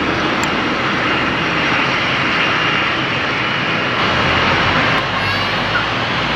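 Jet airliner engines running steadily, a broad, even whooshing noise with a faint high whine over it.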